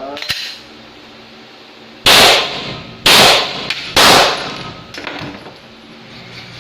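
Three pistol shots from a Glock 17 Gen5 9mm, about a second apart, each with a short echo.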